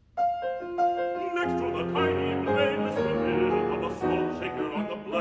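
Piano playing a song's introduction: three single notes stepping down, then fuller chords from about a second and a half in.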